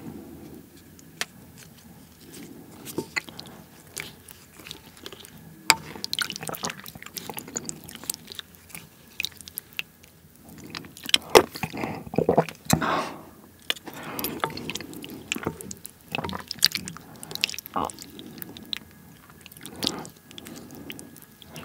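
Close-miked chewing of pork and rice soup, with a wooden spoon stirring and scooping in a ceramic bowl. Many short, sharp clicks throughout, busiest about halfway through.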